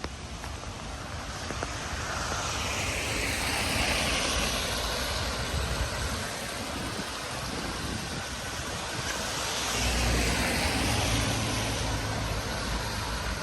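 Two cars passing one after another on a rain-wet road, their tyres hissing through the water as each swells up and fades, the second with a low engine rumble.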